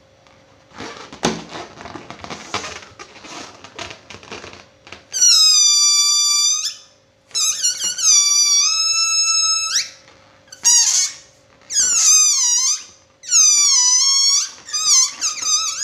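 Balloon squealing as air is let out through its stretched neck: a run of about six loud, high-pitched squeals, each about a second long, some sliding down in pitch as they end and others wobbling. For the first few seconds before the squeals there is only crackly rustling.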